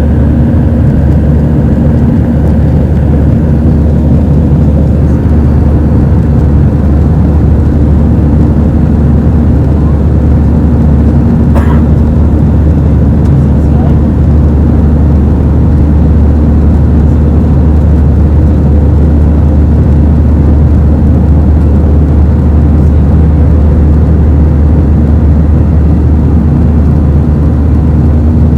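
Airbus A320 cabin noise in flight: the loud, steady drone of the CFM56 jet engines and airflow, with a steady hum running through it. A single short click sounds about twelve seconds in.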